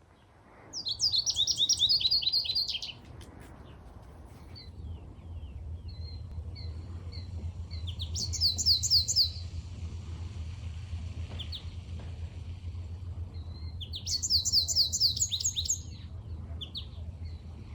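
American goldfinch singing: three loud, rapid phrases of repeated high slurred notes, with softer single calls between them. A steady low hum runs underneath.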